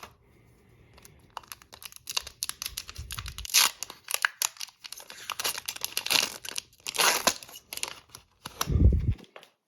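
Hockey card packaging being torn open by hand: quick papery rips and crinkling of the box and pack wrapper in rapid irregular strikes. A loud low thump comes near the end.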